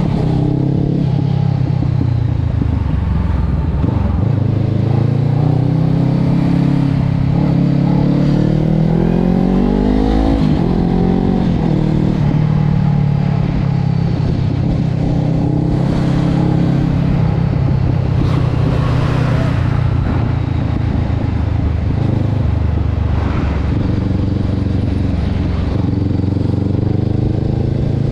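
Honda CB500X's parallel-twin engine running loud through a Termignoni aftermarket exhaust. Its pitch climbs steadily for several seconds, drops sharply about ten seconds in, then holds fairly steady with small rises and falls.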